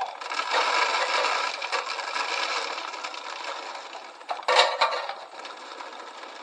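Sunflower seeds pouring from a scoop into a bird feeder: a dense, rattling hiss that tapers off over about four seconds, with a second short, louder rush of seed about four and a half seconds in.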